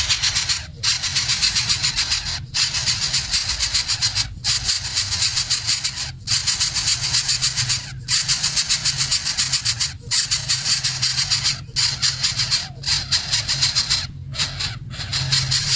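Baby birds giving raspy, hissing begging calls in a rapid pulsing stream, in bouts of about one and a half to two seconds separated by brief pauses.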